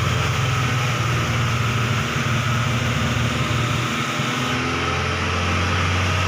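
SsangYong Rexton engine running steadily at idle while a carbon-cleaning fluid is drawn into its intake, part of a decarbonising treatment.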